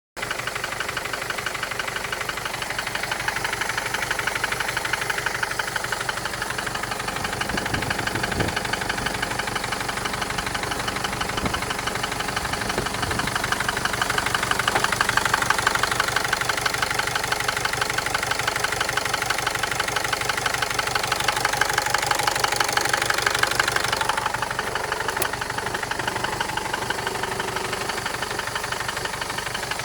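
Mercedes-Benz OM611 four-cylinder common-rail diesel engine running at idle with a rapid, steady knocking. The knock is an extraneous noise that the owner is trying to trace.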